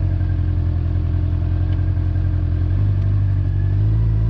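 Honda motorcycle engine running steadily while riding, its note stepping up in pitch about three seconds in and again a second later.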